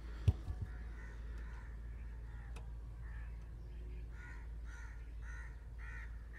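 A bird calling over and over, about two calls a second, through the second half. A short knock comes near the start, followed by two fainter ones.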